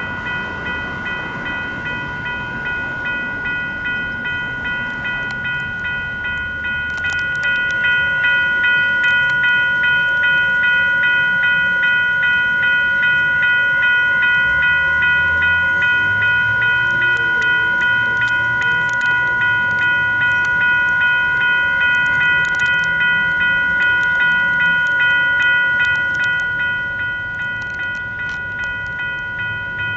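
US&S E-Bell electronic railroad crossing bell ringing continuously in an even repeating ding, with its active warning on. It gets louder from about seven seconds in until near the end, with a low rumble in the middle, as of a light rail train passing.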